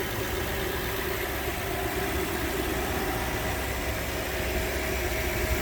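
Lexus LX470's 4.7-litre V8 idling steadily, with no exhaust-manifold tick.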